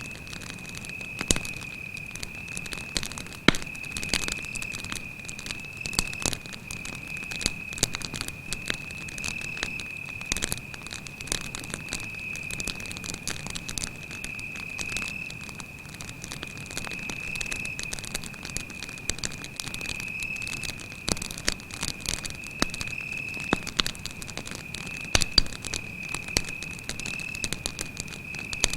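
Wood campfire crackling, with irregular sharp pops and snaps of burning wood, a few of them much louder. Underneath, a cricket's continuous high-pitched trill.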